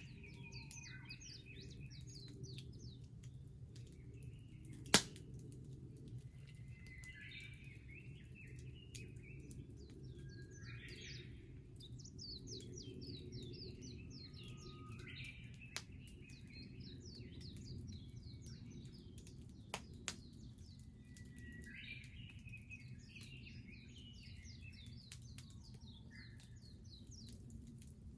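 Wood bonfire burning with a steady low rumble and occasional sharp pops: one loud crack about five seconds in, and two quick ones close together around twenty seconds. Birds sing repeated trilling phrases over it.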